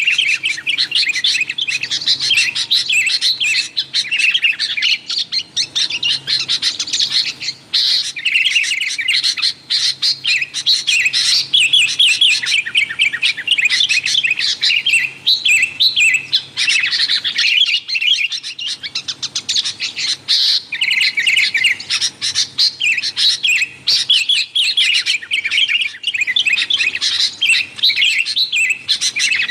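Sooty-headed bulbuls (kutilang) in a noisy chorus, several birds calling and chattering at once in quick, overlapping chirps, with hardly a pause.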